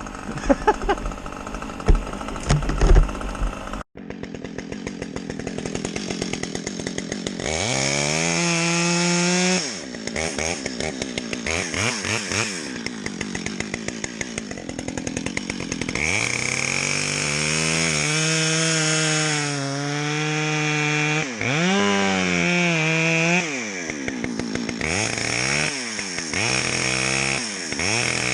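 Chainsaw cutting into tree wood, its engine revving up under the cut and easing off again several times. A few heavy knocks and thumps come in the first few seconds.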